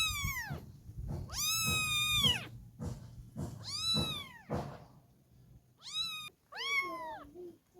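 Kitten meowing repeatedly: about five high-pitched calls, each rising and then falling in pitch, the last two shorter and closer together near the end.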